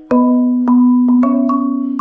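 Marimba played with mallets: about five struck notes in a slow phrase, each ringing on with a deep, low fundamental and higher overtones.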